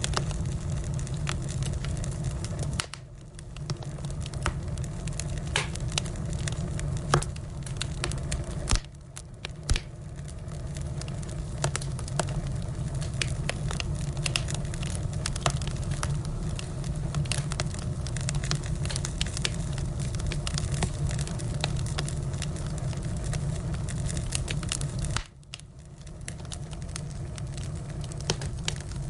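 Firewood burning, with irregular sharp crackles and pops over a low steady rumble of the fire.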